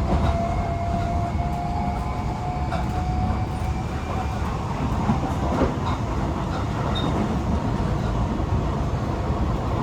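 Tokyo Metro 18000 series electric train running, heard from inside the car: a steady low rumble of wheels on rail. A thin tone rises slightly over the first few seconds and fades out about halfway through.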